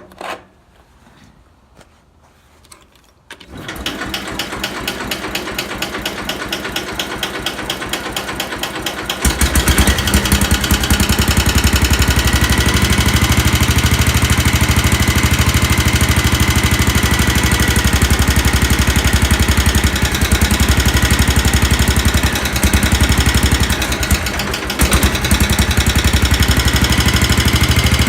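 Sears SS14 garden tractor's engine cold-starting on choke: it cranks with an even beat for several seconds, then catches about nine seconds in and runs with a steady, loud pulse. It dips briefly a couple of times near the end.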